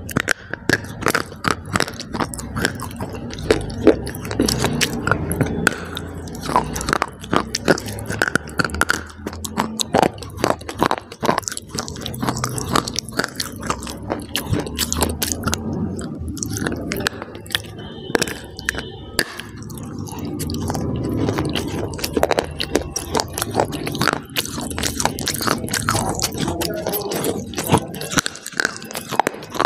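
A person bites into hard, brittle bars and chews them right at a clip-on microphone: repeated crisp crunches and snaps, with wet chewing in between.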